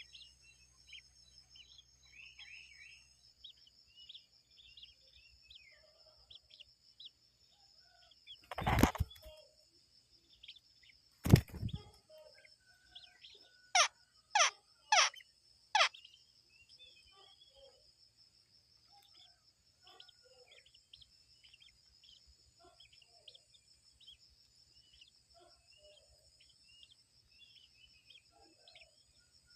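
Bird calls with a steady, pulsing, high-pitched insect drone throughout and faint scattered chirps. Two loud knocks come about 9 and 11 seconds in, and four loud, quick descending whistled notes follow a few seconds later.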